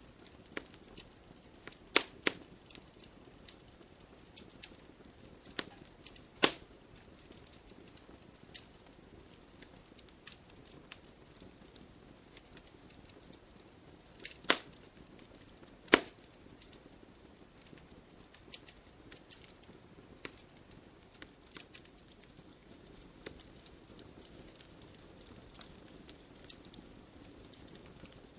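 Campfire crackling: irregular small snaps and pops of burning wood over a faint hiss, with a handful of louder, sharper pops standing out.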